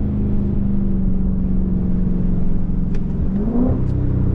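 Dodge Scat Pack Widebody's 6.4-litre HEMI V8 with its mid mufflers deleted, running at a steady engine speed, then a quick rise and fall in revs near the end as the car downshifts.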